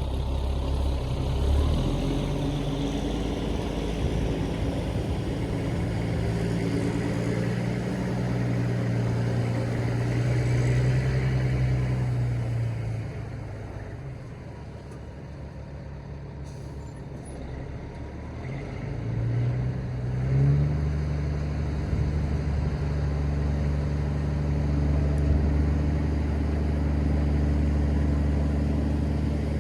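Peterbilt 379 dump truck's diesel engine running under way. Its note holds and climbs for a while, drops away and goes quieter for several seconds about halfway, then picks up again and holds.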